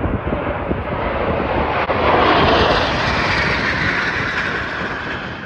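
Jet aircraft flying low overhead: a loud, rushing roar that builds to its peak about two seconds in, then fades as the jets pass.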